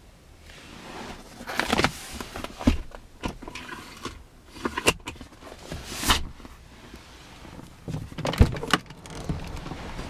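A series of clicks, knocks and rustles as parts of a car are handled, the loudest a sharp knock a little over eight seconds in, with a short steady hum about three and a half seconds in.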